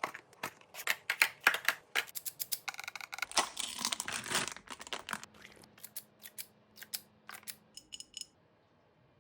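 Snack box being packed: a quick run of sharp clicks and taps from food and containers being handled, with a short rustle in the middle, then the taps thin out.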